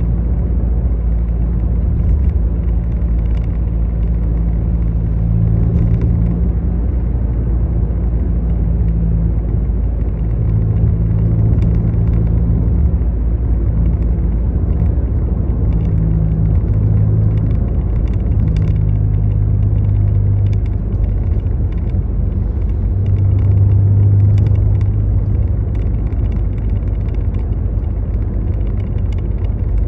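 Steady low rumble of a moving road vehicle, with an engine hum that swells and fades every few seconds.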